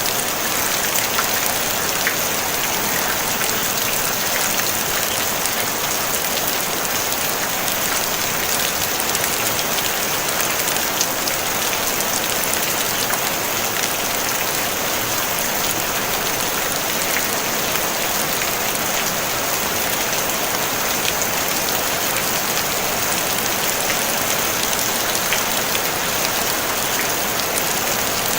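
Steady rain falling on a tin roof, a dense even patter of many small drop impacts with a bright hiss.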